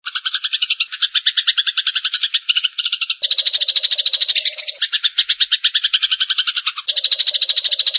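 Sparrows giving a fast, unbroken chatter of rapid repeated notes, about a dozen a second, the agitated fighting call. The chatter changes character abruptly about three seconds in and again near the end.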